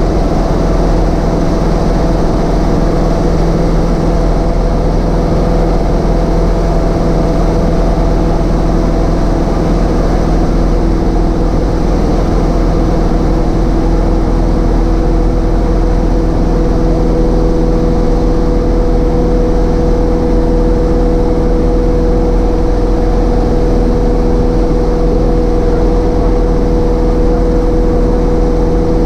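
Cessna 152's four-cylinder Lycoming engine and propeller in a steady cruise drone, heard inside the cabin. The drone holds a constant level, with its mix of tones shifting slightly partway through.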